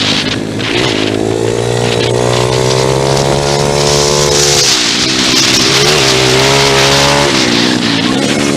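Pit bike engine being ridden hard: its pitch climbs under throttle, drops sharply about halfway through and again near the end as the rider backs off, then climbs again. A rushing hiss rides over it, strongest mid-way.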